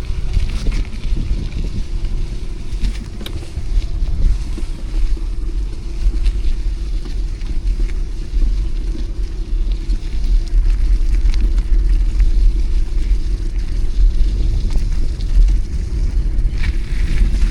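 Wind buffeting the microphone as a rough, continuous low rumble while riding a bicycle through city streets, with traffic noise and a faint steady hum underneath.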